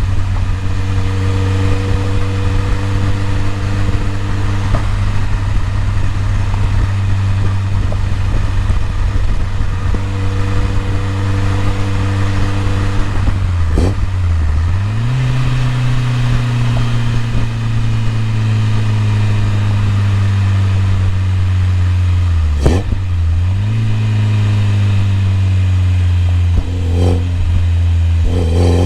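BMW E30 M3's four-cylinder engine running at low, fairly steady revs. Twice the pitch dips sharply for a moment, about halfway and three quarters of the way through, then picks back up and slowly settles.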